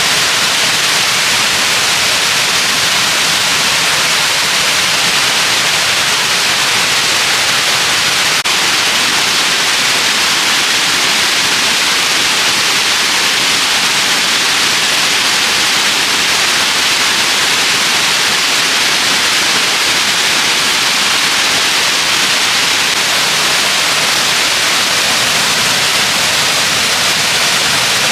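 Steady, loud rush of a waterfall: an even hiss of falling water that does not change.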